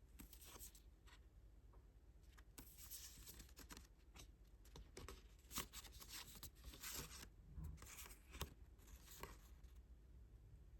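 Faint crinkling and rustling of an album's packaging and paper being handled, in short crisp bursts with small clicks scattered throughout.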